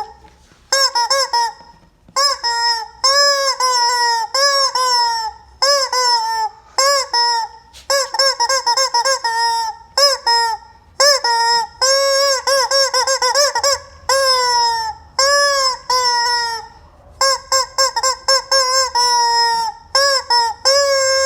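Rubber chicken squeeze toy squawking over and over: runs of loud, pitched honks that bend in pitch, with short pauses between squeezes.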